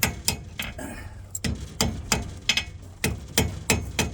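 Blacksmith's hand hammer striking hot metal on an anvil in quick, even blows, about three a second, with a short pause a little after a second in. He is drawing out the metal for a small forged hummingbird's head and tail.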